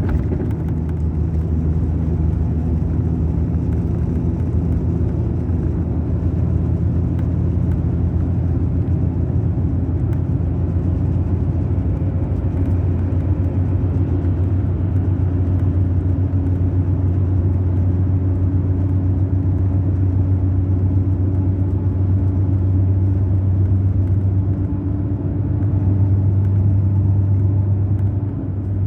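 Mercedes-Benz O500 RSD BlueTec5 coach's diesel engine running steadily, a low drone whose pitch shifts slightly, with a brief drop in level near the end.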